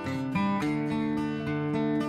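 Background music led by a strummed acoustic guitar, with a chord change about half a second in.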